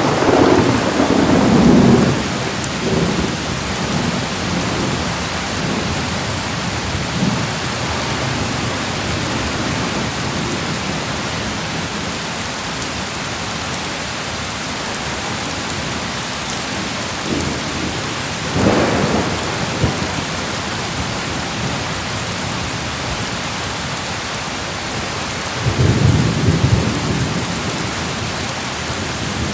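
Steady heavy rain with rolls of thunder: a loud rumble at the start, another sharper one just before the middle, and a third low rumble near the end.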